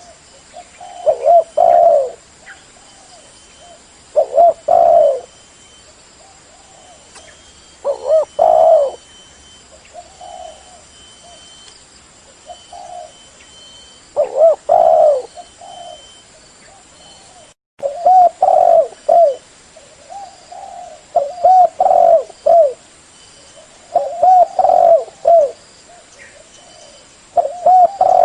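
Spotted dove (derkuku) cooing: loud phrases of several low coos, a new phrase every three to four seconds. The sound cuts out for an instant about two-thirds of the way through.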